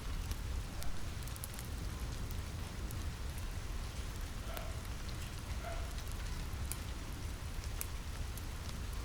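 Steady rain falling on a roof, an even hiss over a low rumble, with scattered sharp crackles from a wood fire.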